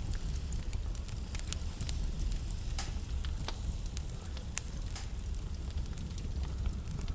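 Wood fire burning in a fireplace: a steady low rumble with irregular sharp crackles and pops from the burning logs, a louder pop near the middle.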